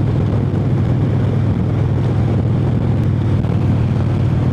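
Harley-Davidson Heritage Softail V-twin running at a steady cruise through its exhaust pipes, which the rider thinks are stock. The note holds even, with no change in revs.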